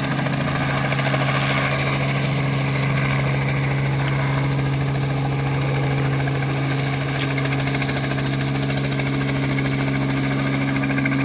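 Helicopter flying low and slow over a cherry orchard, its engine and rotors making a steady drone with a fast, even chop as its downwash blows rain water off the trees.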